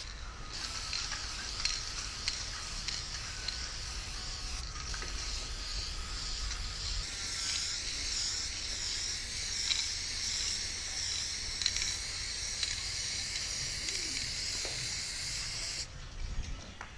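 Aerosol spray paint can hissing in one long continuous spray, cutting off suddenly near the end.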